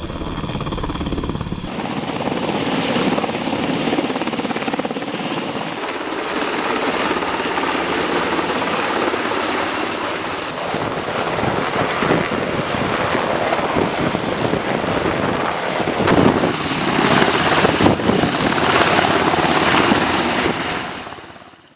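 Helicopter rotor and engine noise, a dense steady wash that shifts abruptly a few times, gets louder in the last few seconds and then fades out.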